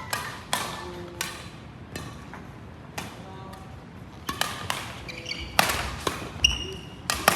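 Badminton rally on an indoor court: sharp racket-on-shuttlecock hits and footfalls at an uneven pace, coming faster and louder in the second half. Short shoe squeaks on the court floor come in from about five seconds in.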